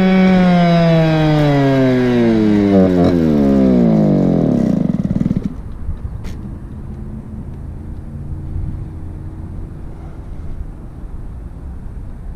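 Goped scooter's 26 cc two-stroke engine (CY26RC) winding down from high revs after the throttle is let off, its pitch falling steadily for about five seconds. It then settles to a much quieter, low idle.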